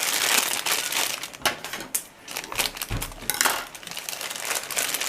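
Crinkling, crushing packaging of a Funko mystery figure blind box as it is handled and opened, in irregular crackles with a short lull about two seconds in.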